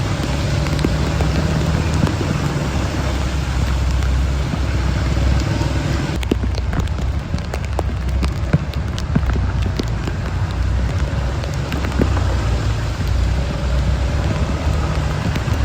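Heavy rain hissing steadily, with a vehicle engine humming low underneath.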